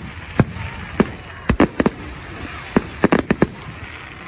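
Fireworks exploding: a string of about a dozen sharp bangs at irregular intervals, several coming in quick clusters.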